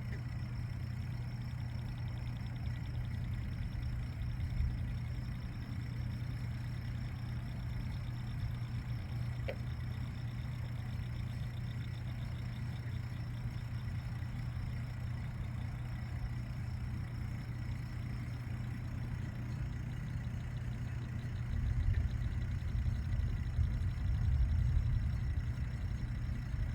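Steady mechanical hum of a pump running by the lake, one believed to aerate the water. About 21 seconds in, a deeper low rumble swells up beneath it.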